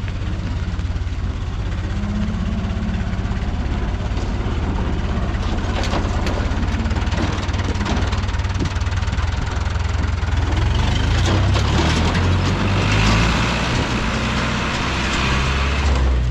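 Fiat 640 tractor's four-cylinder diesel engine running steadily, getting louder and busier from about ten seconds in.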